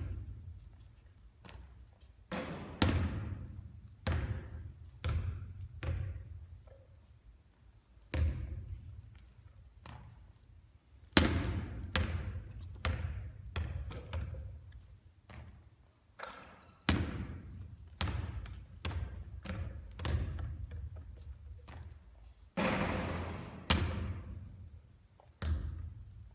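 Basketballs bouncing and thudding on a hard court, a long series of sharp impacts at uneven intervals, each ringing out briefly.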